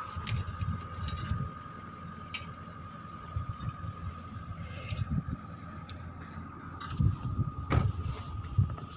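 A vehicle engine running steadily with a constant thin whine, while wind gusts on the microphone as an uneven low rumble.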